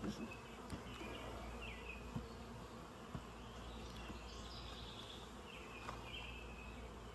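A steady buzzing hum of a honeybee swarm in the air, with a few faint clicks.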